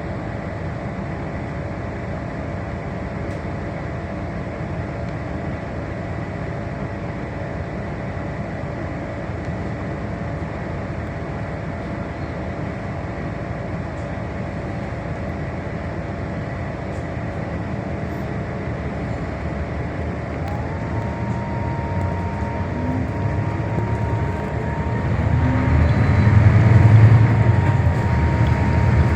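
Scania K320HB bus engine idling with a steady low rumble, then revving up as the bus pulls away. From about 21 seconds in, a rising whine climbs and the engine gets louder, peaking a few seconds before the end.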